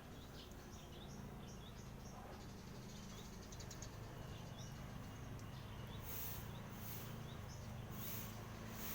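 Small birds chirping with short, high, repeated calls over a steady low background hum. From about six seconds in, a hissing pulse comes back roughly once a second.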